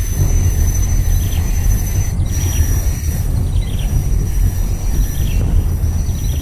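Outdoor ambience dominated by a steady low rumble, like wind buffeting the microphone, with a thin high steady tone and a few faint short bird chirps.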